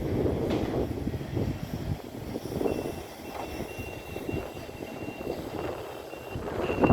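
Strong wind gusting and buffeting the microphone, rising and easing in surges, loudest at the start and again near the end. A faint high steady tone comes and goes through the second half.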